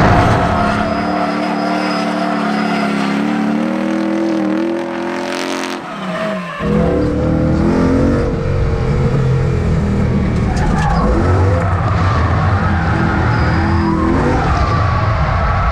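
Toyota 1UZ 4.0-litre V8 in a Lexus IS300 drift car, revving hard on track with its pitch swinging up and down with the throttle. About six seconds in the revs fall sharply and the sound dips briefly, then the engine revs up again and keeps rising and falling.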